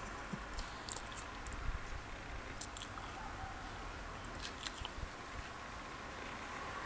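A crisp wafer biscuit being bitten and chewed: irregular crunches and crackles.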